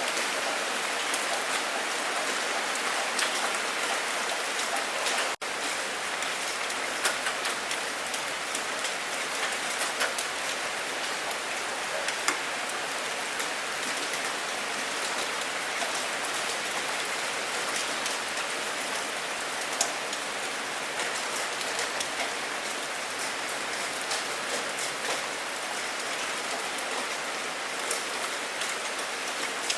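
Steady rain falling on a surface, a dense even hiss with scattered sharper drop hits. The sound cuts out for a split second about five seconds in.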